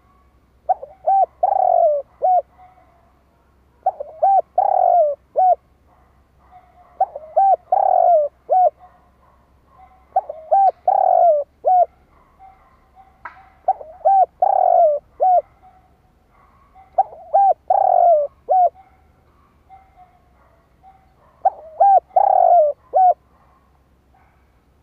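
Spotted dove cooing its song: a phrase of a few short notes around one longer, fuller coo, repeated evenly about every three seconds, seven times.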